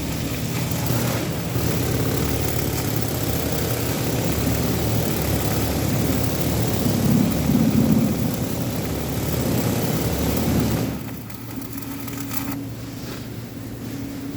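Electric arc welding: a steady crackling hiss of the arc that stops abruptly about eleven seconds in. A low steady hum runs underneath throughout and continues after the arc breaks.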